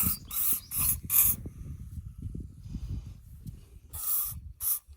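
Aerosol can of Lanox lanolin spray hissing in short squirts, being worked into a throttle that is seized with corrosion. There are four quick squirts in the first second and a half, then a longer one about four seconds in and a short one just before the end.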